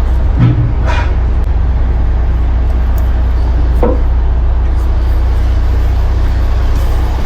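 Heavy truck's diesel engine running steadily with a low, even hum, with a few short sounds over it near the start and again around four seconds in.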